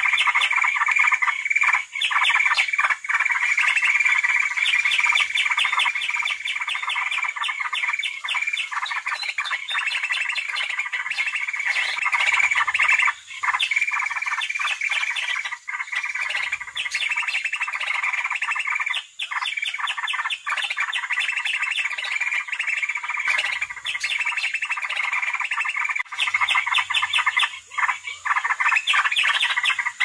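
Leafbird (cucak ijo) and cucak jenggot bulbul calls in a dense, unbroken chatter of rapid repeated notes. These are the agitated fighting calls used as a lure track for trapping leafbirds.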